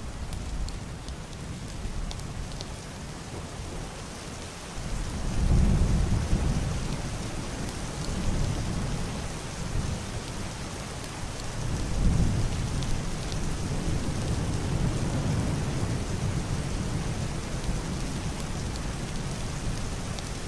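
Heavy rain falling steadily on a roof and window glass, with deep, muffled rolling thunder that swells twice, about five seconds in and again about twelve seconds in.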